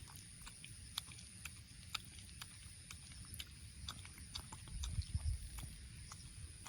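Elderly Shiba Inu's claws clicking irregularly on pavement as it walks, several clicks a second, over a low rumble.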